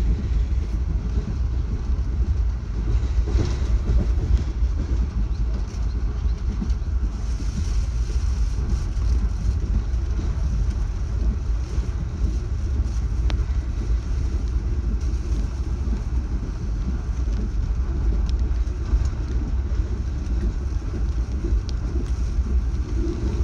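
Amtrak passenger train running along the track, heard from inside the coach: a steady deep rumble with a few faint clicks and rattles.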